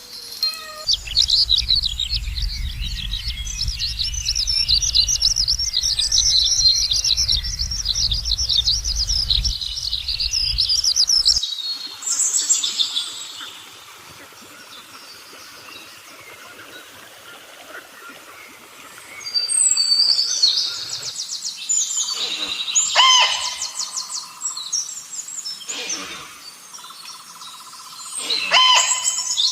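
Birds chirping: a dense run of quick high chirps over a low rumble for the first ten seconds or so, then quieter, then further bursts of chirps near the end.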